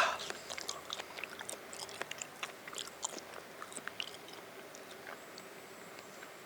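A short loud rustling burst at the very start, then soft, irregular clicks and crackles close to the microphone, with a faint thin high tone near the end.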